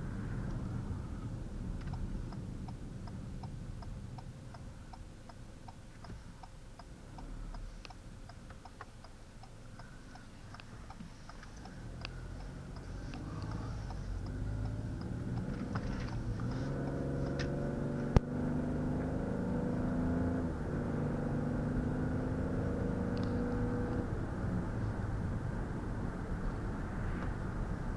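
Road and tyre noise inside a 2020 Ford Escape SE's cabin on the move. It quietens for a while, then the 1.5-litre EcoBoost three-cylinder engine's note rises as the car picks up speed about halfway through and holds steady. A single sharp click sounds a little past halfway.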